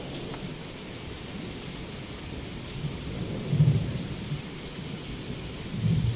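Heavy rain falling steadily, with low rolling thunder that swells about halfway through and again near the end.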